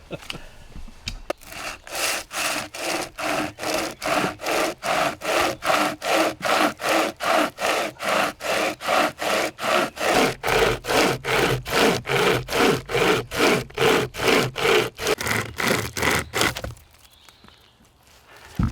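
Bahco Laplander folding pruning saw cutting through a branch with steady back-and-forth strokes, about two to three a second. The sawing stops a couple of seconds before the end, and a single sharp knock follows.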